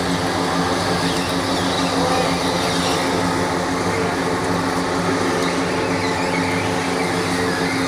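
Copra oil press machine running steadily: a constant mechanical hum with a steady pitch, without let-up.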